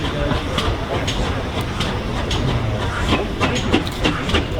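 Steam-hauled train on the move: a steady rumble with a regular run of sharp clicks that come quicker near the end.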